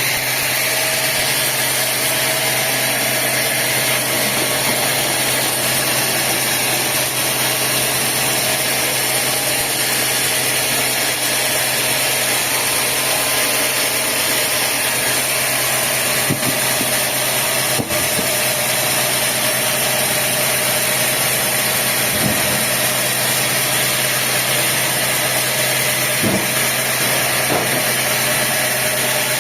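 Sawmill machinery running steadily, a constant engine hum with a few faint knocks.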